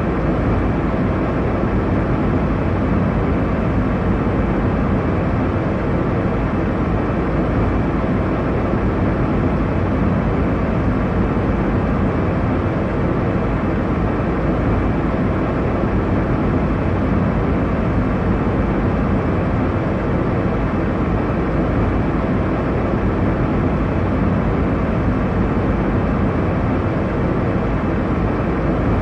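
Airliner cabin noise in flight: a steady, deep rushing of engine and airflow noise, strongest in the low range, with no change in level.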